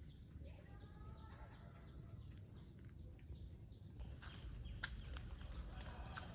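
Faint rural outdoor ambience: a steady low rumble with a few faint bird calls early on and a few sharp clicks, one louder near the end.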